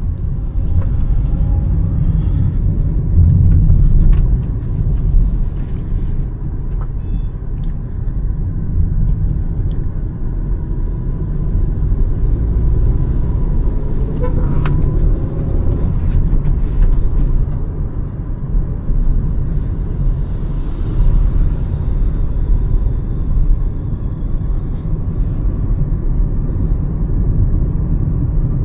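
Hyundai Verna's 1.5-litre turbo petrol engine and road noise heard from inside the moving car, as a steady low rumble.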